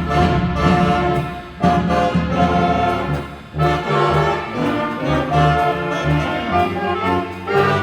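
Orchestral music led by brass, with trumpets and trombones over a pulsing bass line; it dips briefly twice between phrases.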